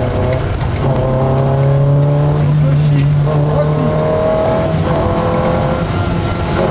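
MG F's four-cylinder engine accelerating hard, heard from inside the cabin on a rally stage: the pitch climbs steadily, then drops back at an upshift about two and a half seconds in and again at about four and a half seconds.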